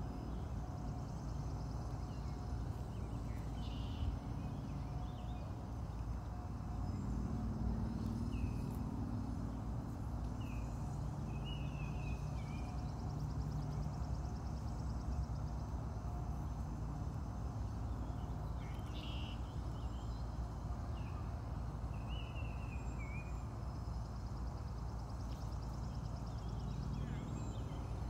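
Short high bird chirps, some gliding down in pitch, a few at a time every several seconds, over a steady low rumble of outdoor background noise.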